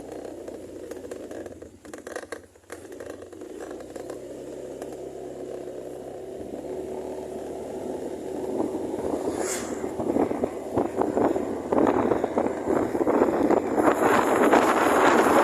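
Honda Genio scooter on the move, its small single-cylinder engine running under a rush of wind noise on the microphone that grows louder over the last several seconds.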